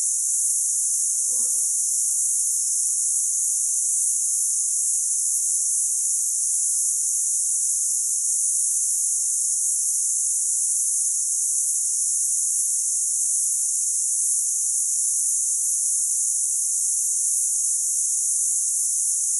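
A steady, unbroken, high-pitched insect chorus, the shrill drone of many cicadas or crickets, with no rise or fall.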